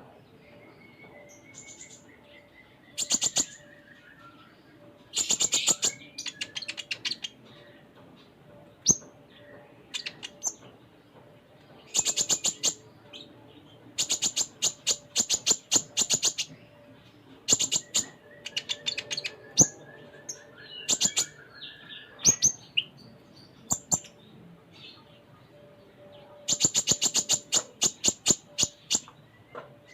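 Olive-backed sunbird (kolibri ninja) singing: repeated bursts of rapid, sharp, very high chirps, each burst under a second to about two seconds long. Twice a thin, slowly falling whistle is drawn out between the bursts.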